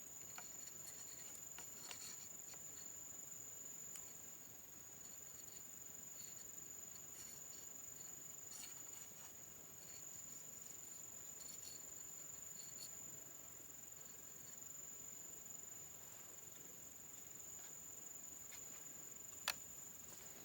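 Insects trilling in one steady high-pitched drone, with scattered faint ticks and one sharp click near the end.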